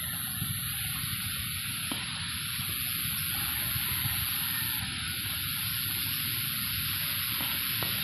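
Steady rush of running water, even and unbroken, with a thin high steady tone above it.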